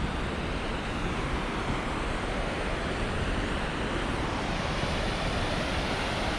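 Goðafoss waterfall's rushing water, a steady, unbroken roar.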